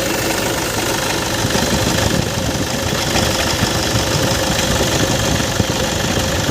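Toyota Innova engine idling steadily, with a steady hum running through it from the alternator, the sign of a worn alternator bearing.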